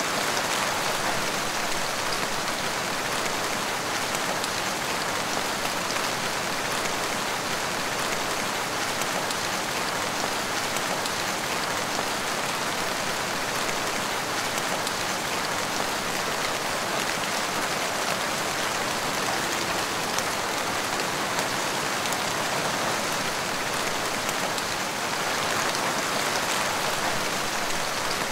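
Heavy rain falling steadily, with no let-up.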